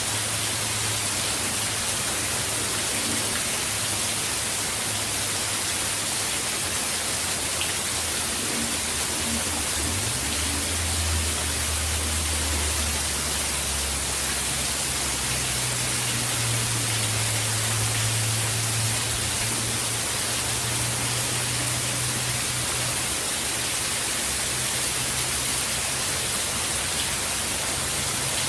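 Steady hiss of heavy hurricane rain, unbroken throughout, with a low hum underneath that steps up and down in pitch a few times.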